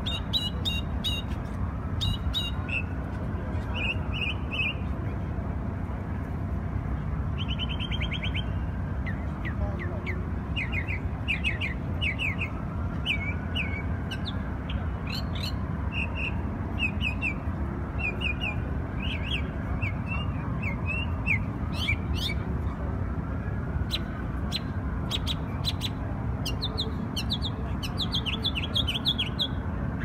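A songbird calling in short chirps, often in quick runs of several notes, over a steady low background rumble.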